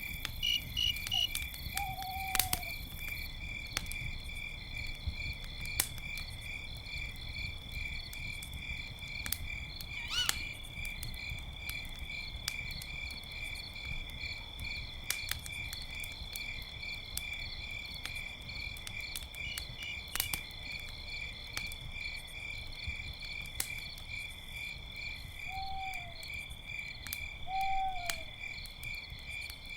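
Crickets chirping steadily in a high, pulsing trill, with a campfire crackling and popping now and then. An owl hoots briefly once near the start and twice near the end.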